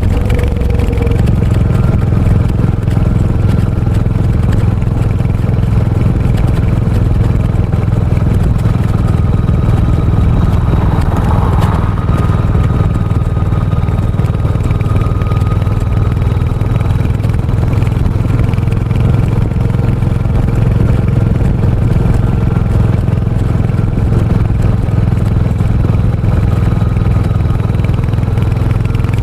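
Royal Enfield Hunter 350's single-cylinder engine and exhaust running at a steady pace while the motorcycle is ridden.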